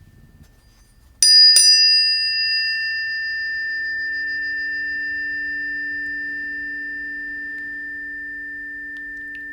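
Two planetary tuning forks, for Mars and Venus, struck one after the other about a second in, a fraction of a second apart, then ringing on together as a steady chord of pure tones that slowly fades.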